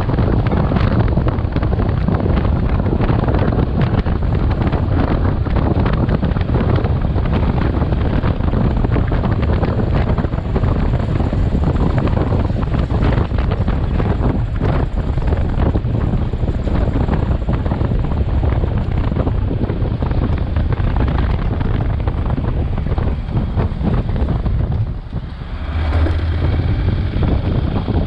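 Heavy wind buffeting on the microphone of a moving motorcycle, with the engine and road noise underneath. Near the end the rush drops off briefly and a steadier low engine hum comes through.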